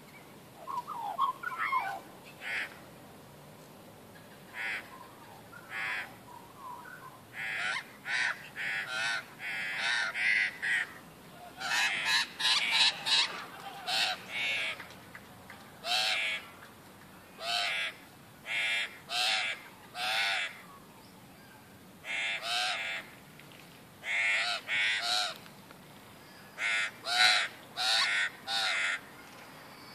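Birds calling: short, loud calls repeated many times, mostly in quick runs of two to four, with a few faint chirps at the start.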